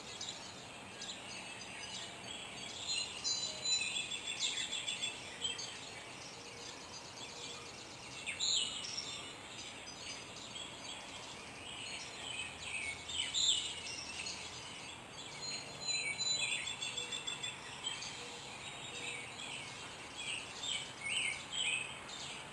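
Several songbirds singing and chirping at once, overlapping whistles and quick trills, over a faint steady outdoor hiss.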